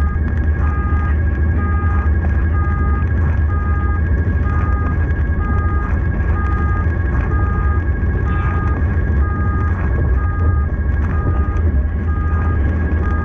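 Rescue vehicle driving with its siren on: a steady low rumble of engine and road, over which a steady high tone sounds together with a beeping tone that switches on and off about one and a half times a second.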